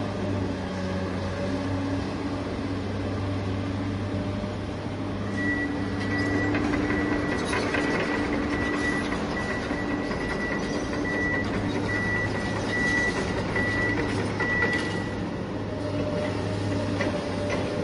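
Steady low engine drone of a heavy vehicle, with a high beeping like a reversing alarm from about five to fifteen seconds in.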